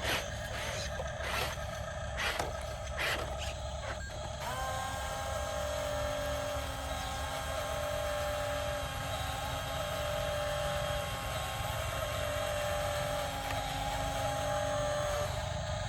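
Small electric motors and plastic gearing of radio-controlled construction models, with several clicks and knocks over the first four seconds. About four seconds in, a steady, fairly high whine starts and runs on with small wobbles in pitch.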